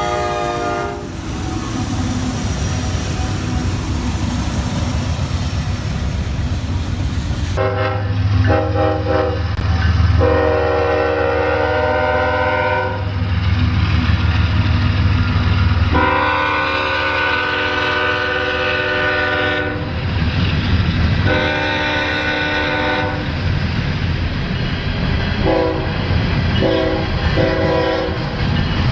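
Locomotive air horn sounding a series of blasts: two long ones, then a shorter one, then several short toots near the end, over the low rumble of the passing train. The first several seconds hold only the train's rumble and rail noise, with no horn.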